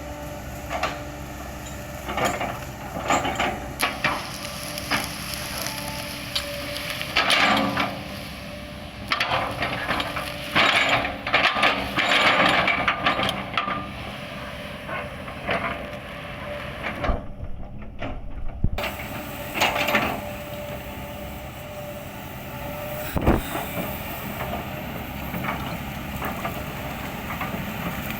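Kobelco excavator running while its bucket chops and crushes oil palm trunks, with repeated cracks and crunches of splitting wood over the steady engine. The loudest clusters of crunching come in the first half. The sound cuts out for about a second and a half past the middle.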